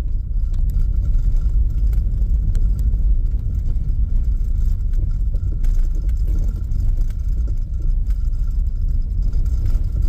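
Car driving slowly, heard from inside the cabin: a steady low rumble with a few light clicks and rattles.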